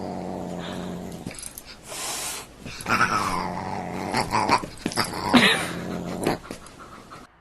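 A pet animal growling low and steadily for about a second, then making a few higher cries, one sliding down in pitch.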